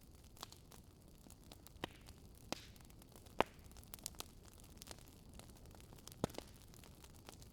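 Wood fire crackling in a fireplace: scattered sharp pops over a faint steady hiss, the loudest about three and a half seconds in.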